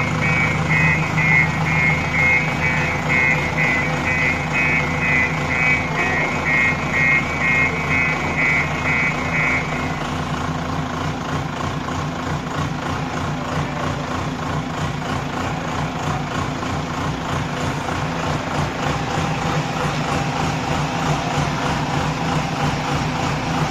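JCB backhoe loader's diesel engine running steadily, with its reversing alarm beeping over it for the first ten seconds or so. The alarm then stops and the engine runs on alone.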